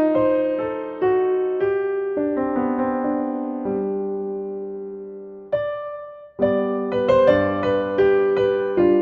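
Gentle solo piano music: slow chords and melody notes that ring and fade; about halfway through a phrase dies away, a lone note sounds, and after a short pause the playing picks up again.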